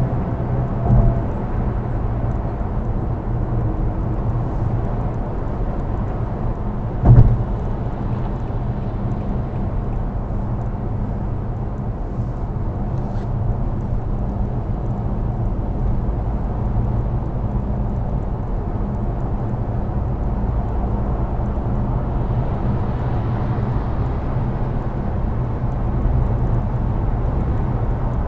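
Steady low rumble of a car driving on the road, engine and road noise at an even level. There is one sharp thump about seven seconds in and a smaller one about a second in.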